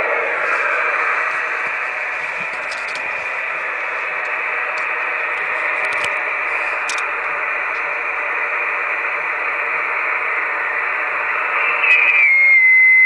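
Radio receiver hiss through its speaker, steady noise limited to the narrow voice band of an SSB/FM receiver, with a few faint clicks. Near the end a whistling tone comes in louder and steps down in pitch, the kind of tone heard when the receiver tunes onto the signal generator's carrier.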